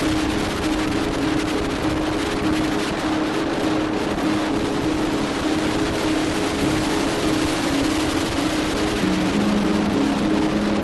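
A moving vehicle's engine drone and road noise, steady throughout, with the drone dropping a little in pitch near the end.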